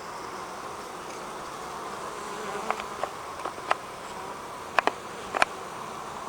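Honeybees buzzing steadily around a busy hive, a dense swarm-like hum, with a few short sharp clicks in the second half.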